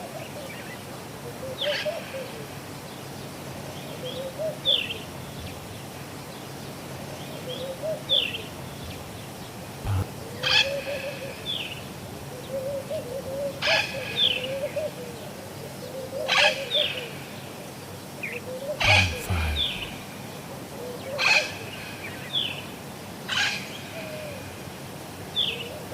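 Caged parrots calling: loud, sharp calls every two to three seconds, short chirps between them, and a low warbling coo repeating underneath.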